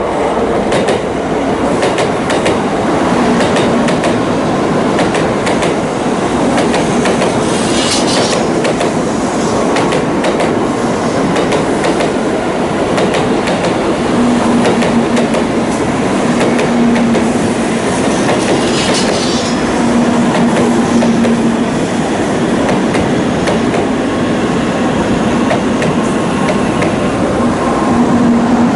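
Shinkansen train running alongside the platform: a steady loud rumble with many rapid clicks from the wheels over the rails, and a faint low tone coming and going.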